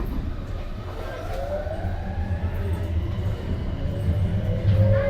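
Tokyo Metro 02-series subway train running, heard from inside the car: a low rumble under a motor whine that rises slowly in pitch as the train gathers speed.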